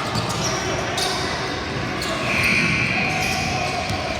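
Basketball game sound in a gym: a ball bouncing on the court with a few sharp thumps over a steady background of crowd voices. A higher-pitched sustained sound swells about two seconds in and is the loudest part.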